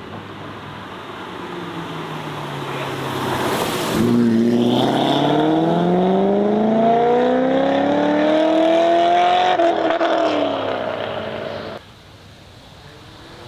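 A performance car accelerating hard past, its engine note climbing steadily in pitch for about five seconds, then dropping away as the driver lifts off near the end.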